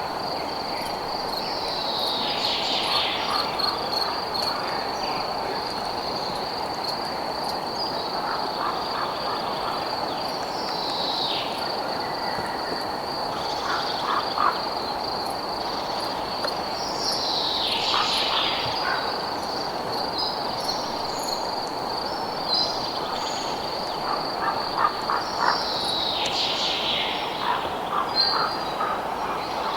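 Night nature ambience: an insect trills on one high, unbroken pitch over a steady low hiss, while a falling call comes about every eight seconds and frogs croak in short clicking clusters.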